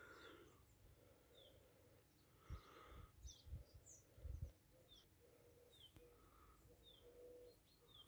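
Near silence outdoors, with a faint bird repeating a short falling chirp about once a second. A few soft low thumps come near the middle.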